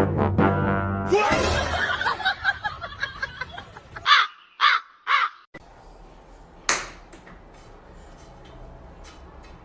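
Three short, harsh animal calls in quick succession, about half a second apart, following a brief passage of music and a noisy scene.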